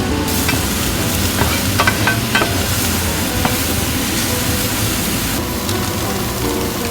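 Empanada filling frying and sizzling in a pan as it is stirred, with a few quick clinks of the utensil against the pan about two seconds in.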